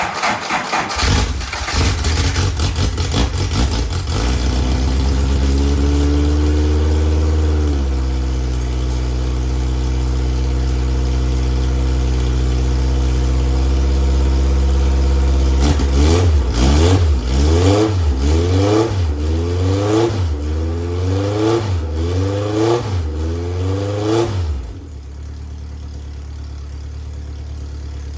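Van Diemen Formula 2000 race car's 2-litre inline-four, long stored, firing up: a moment of cranking, then it catches and runs fast and steady. From about the middle it is revved about eight times in a row, then it drops to a quieter, steady idle near the end.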